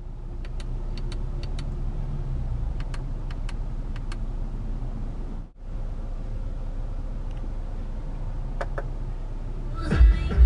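Steady low hum inside the cabin of a 2019 Audi RS Q3 Sportback with its 2.5-litre five-cylinder engine idling, broken by a few small clicks of dashboard buttons being pressed. Radio music with a beat cuts in near the end.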